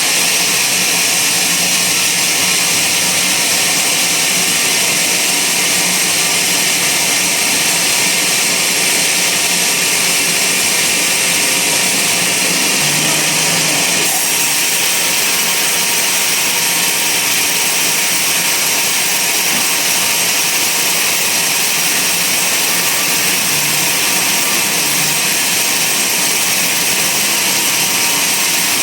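Band sawmill running steadily: a loud, even hiss, strongest in the high end, with no break.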